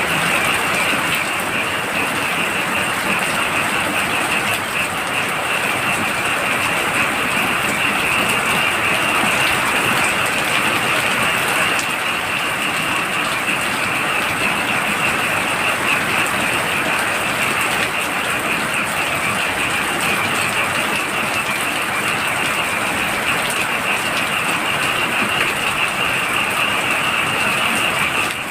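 Heavy rain falling steadily, with a dense chorus of frogs calling throughout as a high, rapidly pulsing trill over the rain.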